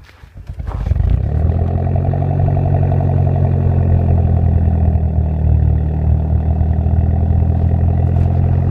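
Mitsubishi Lancer Ralliart's 2.0-litre turbocharged four-cylinder cranking briefly and catching about a second in, then running steadily: a cold start after a −30 °C night. It starts up easily on Royal Purple synthetic 5W-20 oil.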